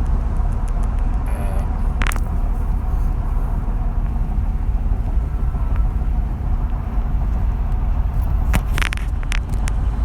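Steady low road rumble inside the cab of a 2016 Ford F-250 crew cab 4x4 driving at about 70 mph on concrete pavement, with a few short clicks about two seconds in and again near the end. This is the stretch where the whole truck shakes badly, and the owner is not sure why.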